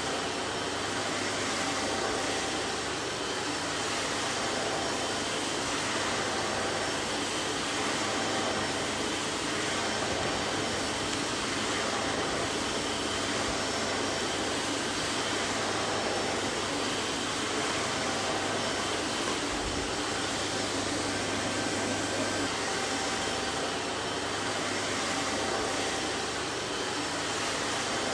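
Vacuum cleaner running steadily: an even rushing hiss with a faint steady whine and a low hum, unchanging throughout.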